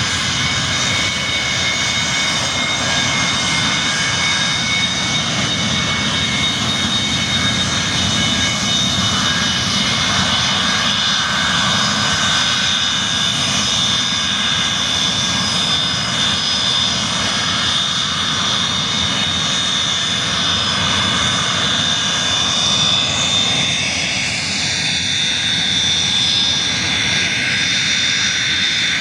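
Boeing jet airliner's engines running steadily: a loud, constant rushing noise with several steady high-pitched whining tones, which shift slightly about 24 seconds in.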